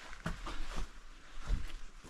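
Scattered footsteps and scuffs on rock with a few soft knocks, the loudest about one and a half seconds in.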